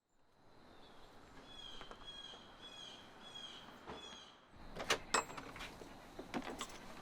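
A bird calls the same short chirped note five times in steady succession over faint outdoor hiss. Then the sound changes abruptly to a few sharp knocks and clicks.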